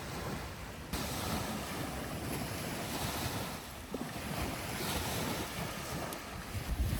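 Sea waves washing onto the shore, swelling and easing, with wind rumbling on the microphone.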